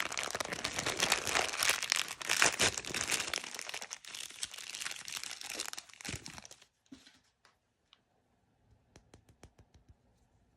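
Blind-bag packaging being crinkled and torn open by hand, a dense crackling rustle that stops about six and a half seconds in. It is followed by a few light clicks and then a quick run of small sharp ticks near the end.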